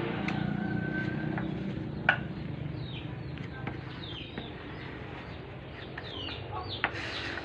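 Birds chirping in short, scattered calls over a low steady hum, with a couple of sharp clicks.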